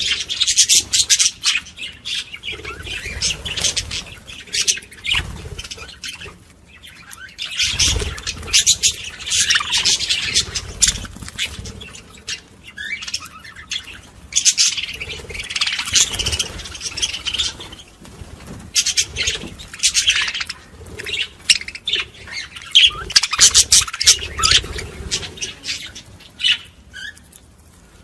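Budgerigars chattering and warbling in high-pitched bursts of a few seconds, with short lulls between.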